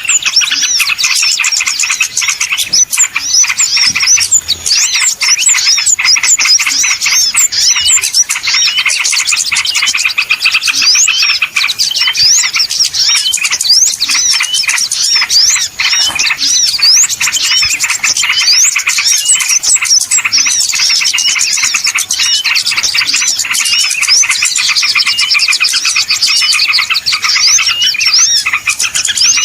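Small-bird lure call: a dense chorus of many small songbirds chirping and twittering at once, high-pitched and unbroken, with rapid rising and falling notes.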